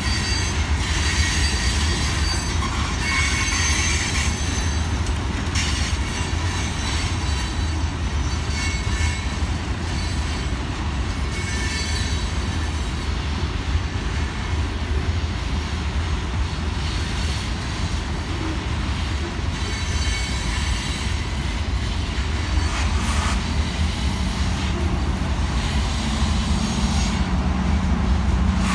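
Freight train's boxcars rolling past with a steady wheel-on-rail rumble, broken by recurring high-pitched wheel squeal. Over the last few seconds a diesel locomotive's engine drone joins in as the locomotive draws near.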